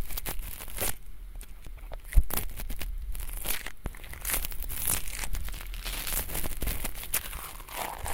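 Ear pick scratching and scraping at thin, flaky earwax close to the microphone's ear: irregular dry crinkling strokes, with a louder bump about two seconds in.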